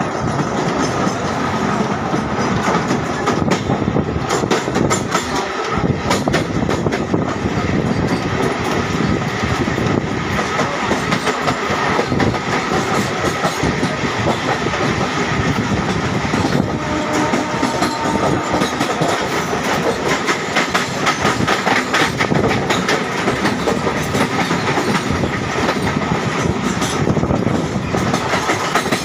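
Passenger trains running on the rails, a continuous rumble of wheels with rapid clickety-clack over the rail joints and no break throughout.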